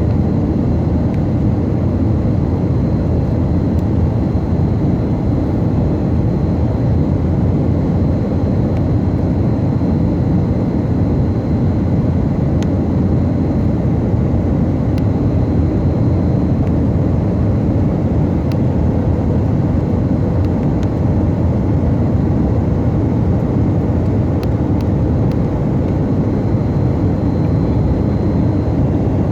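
Steady in-flight noise of a Tupolev Tu-134AK in level cruise: a deep, even rush from the airflow and its two rear-mounted Soloviev D-30 turbofans. A faint high whine runs through it and drops out near the end.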